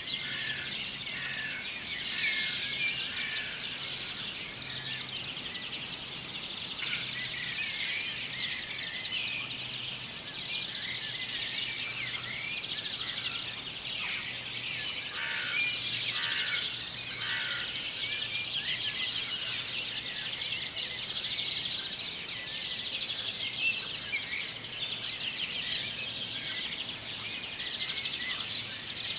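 Dawn chorus of many birds singing at once: a dense, continuous tangle of overlapping chirps, trills and short whistled notes.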